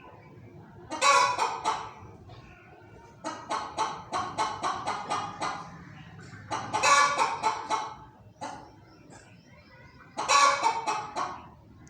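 Domestic hen clucking: a run of about nine short, evenly spaced clucks at roughly four a second in the middle, set between three louder, harsher bursts of calls about a second in, near seven seconds, and near ten seconds.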